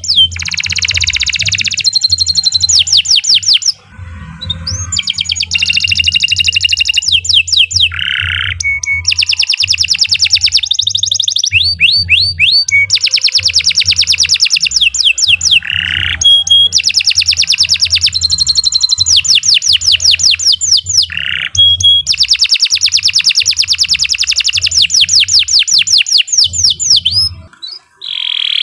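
Domestic canary singing a long, loud song of rapid trills and rolls of quickly repeated notes, in phrases of a few seconds with brief pauses between them.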